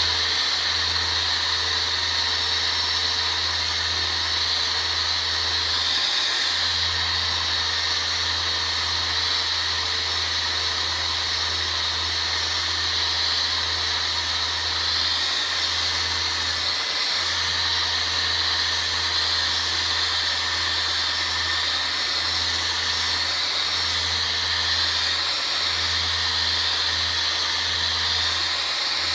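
Power sander running steadily against a car's body panel, a continuous hissing whir with a low hum that dips briefly a few times, during sanding of the body before paint.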